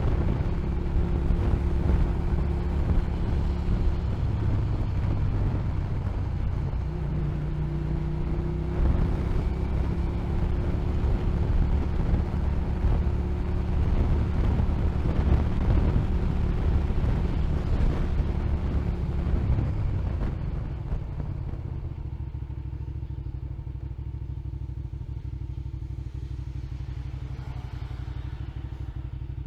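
Motorcycle engine running under way, with wind and road noise, its pitch shifting as the bike changes speed. About two-thirds of the way through it drops to a quieter, steadier note as the bike slows.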